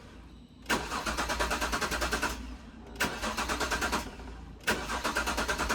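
Jaguar S-Type engine cranking on its starter motor in three bursts with a quick, even beat, never catching. The fuel pump under the back seat is not running, which is taken for a failed pump, so the engine gets no fuel.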